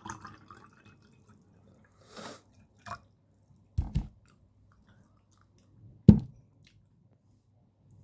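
Close-miked eating: chewing and wet mouth sounds, with a short double low thump about four seconds in and a louder single low thump about six seconds in.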